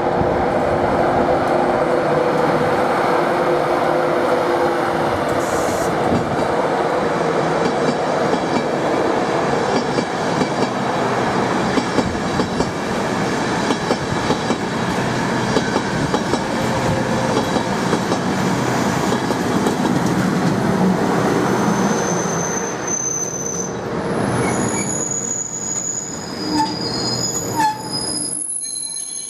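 Train running along the track: a loud, steady rumble of wheels and running gear with occasional clicks. Towards the end it gives way to several high-pitched metallic squeals as the rumble eases.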